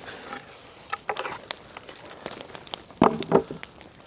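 Scrap boards knocking as they are dropped onto a fire, two loud clunks in quick succession about three seconds in, among scattered sharp pops and crackles from the burning wood.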